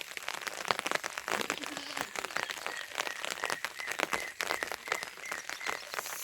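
Rain falling, with many close, irregular sharp drops hitting a surface. A faint series of short, evenly repeated high notes sounds through the middle.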